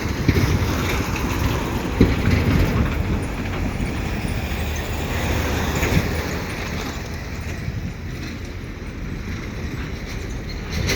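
Road traffic passing close by on the bridge, a steady noisy rumble that swells about two seconds in and again around six seconds, with wind on the microphone.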